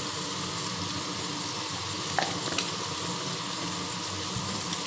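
Pork pieces sizzling steadily as they fry in a little oil in a kadai over a low gas flame, with a couple of short clicks about two seconds in.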